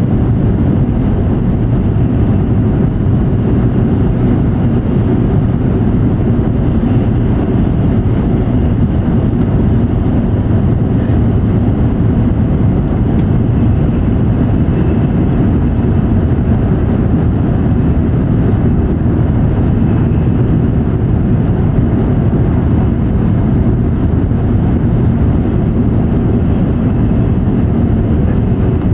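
E7 series Shinkansen running at high speed, heard inside the passenger cabin: a steady, unbroken low rumble and rush of wheels and air.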